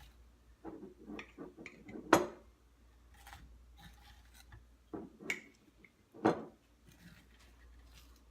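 Kitchen handling noises: a run of small clicks and knocks from utensils and containers, with two sharper clacks about two seconds and six seconds in.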